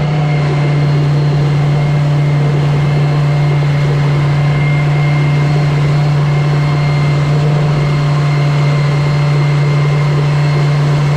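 Suzuki 70 hp outboard motor running at steady revs, an even unbroken drone with a faint higher whine, as during its break-in running.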